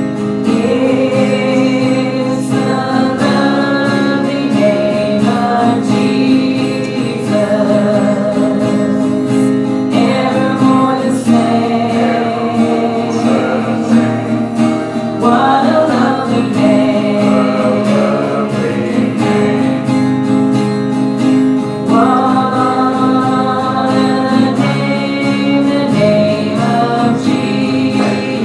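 Congregation singing a hymn in unison and parts, with strummed acoustic guitar accompaniment.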